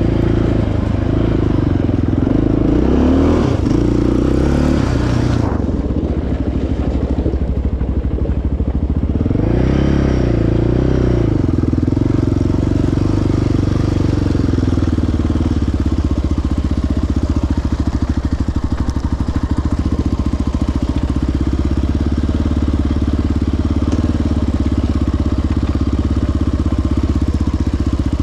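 Single-cylinder four-stroke sport ATV engine running under way on a trail, its engine speed rising and falling twice in the first half, then holding fairly steady.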